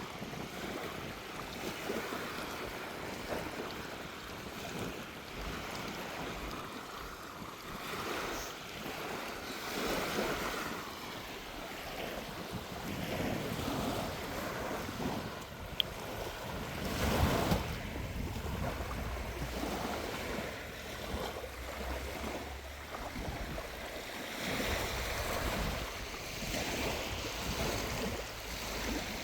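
Small waves breaking and washing up a sandy shore, swelling and ebbing every few seconds, with sea breeze buffeting the microphone. The biggest surge comes a little past halfway through.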